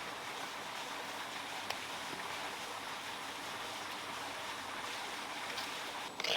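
Steady rushing of flowing water, with a few faint clicks and a brief louder knock near the end.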